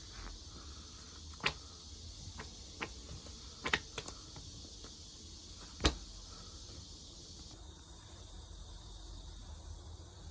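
Firewood burning, crackling with irregular sharp pops over a steady hiss; the loudest pop comes about six seconds in.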